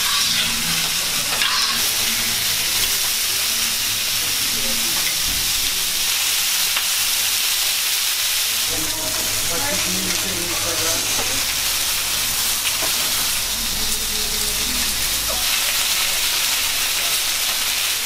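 Chicken fillets and halved bread rolls sizzling on a hot flat-top griddle: a steady frying hiss.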